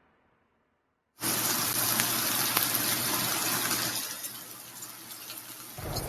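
Loud rushing water starts abruptly about a second in and holds as a steady hiss, easing slightly later. A low rumble joins near the end.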